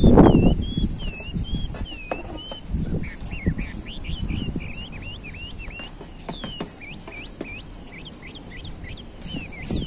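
A songbird singing a continuous run of high whistled notes, wavering at first, then breaking into quick, varied up- and down-slurred notes after about three seconds. Under it, soft scraping and rustling of a garden trowel pushing potting soil, loudest right at the start.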